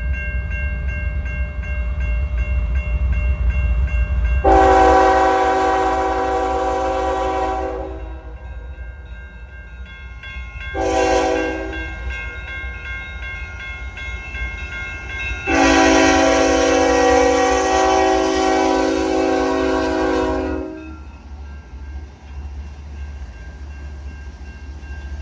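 Diesel locomotive horn sounding three blasts (long, short, then long) over the steady low rumble of the slow-moving freight train's locomotives.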